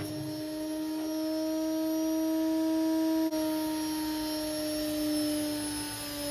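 Indesit IWC71453 washing machine spinning with a steady tonal drone, its pitch creeping up and then slowly sinking after a small click about three seconds in. The machine has worn drum bearings.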